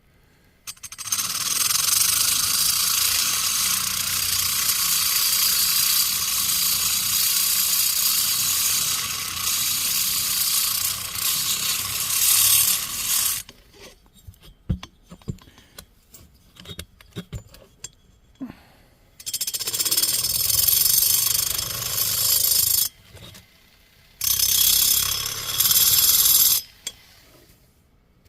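A high-speed rotary grinding tool beveling the edge of a Stihl MS460 chainsaw cylinder's exhaust port: one long run of grinding of about twelve seconds, a few seconds of small clicks and taps, then two shorter runs near the end.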